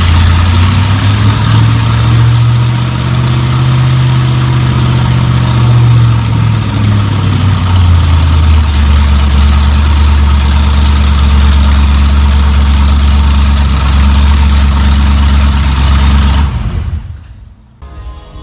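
Chevy 350 small-block V8 running just after a first start, at a fast idle that settles to a lower, steady idle about eight seconds in. It cuts off suddenly near the end.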